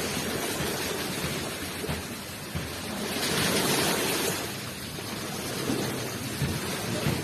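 Ocean waves washing onto the shore as a steady rushing wash, with one wave surging louder around the middle and then falling back.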